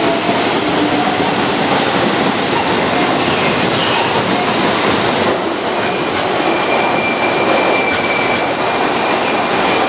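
Keihan 6000 series electric train running, a steady loud rumble of wheels on rails. About six seconds in, a thin high steady tone joins it and holds.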